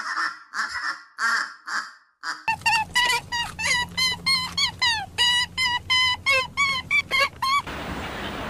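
Waterfowl calling: a run of harsh, rasping calls, then after a cut a fast series of clear, pitched honking calls, about three a second. A steady rushing noise takes over near the end.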